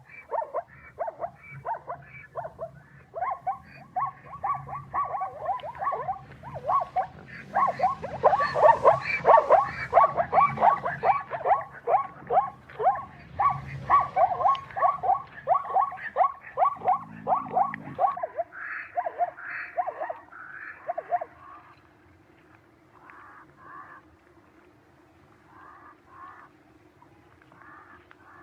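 Animals calling in a rapid run of short repeated calls, several a second, loudest in the middle and thinning out to fainter scattered calls near the end.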